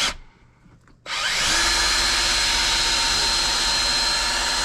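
Powered wire-stripping machine starts up about a second in and runs steadily with a high whine.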